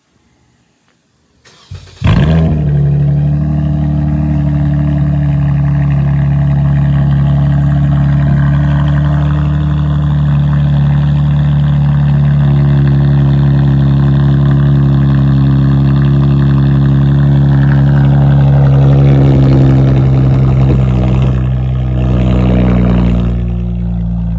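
Straight-piped Dodge Challenger cold-started: the starter cranks briefly about two seconds in, the engine catches and runs at a loud, steady fast idle, then settles to a quieter idle near the end.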